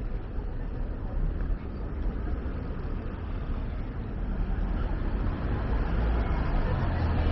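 Street ambience of road traffic going by, with a low rumble that grows louder near the end.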